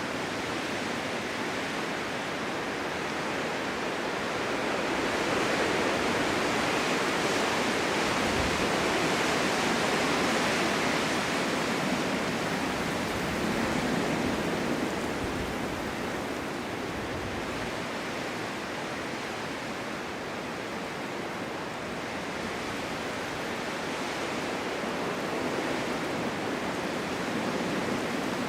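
Strong wind blowing in a snowstorm, a steady rushing hiss that swells in slow gusts and eases off again.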